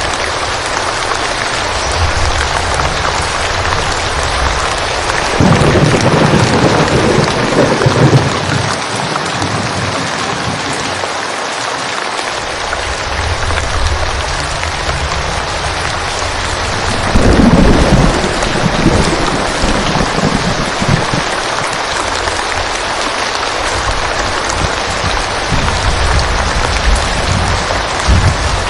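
Steady rain falling, with two rolls of distant thunder rumbling, one about five seconds in and another about seventeen seconds in.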